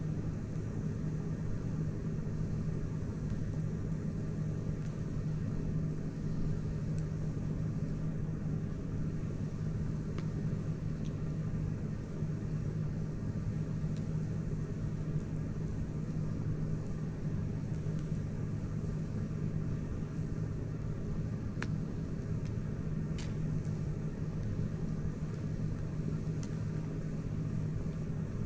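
Campfire burning with a steady low rumble and a handful of sharp, isolated pops from the burning wood.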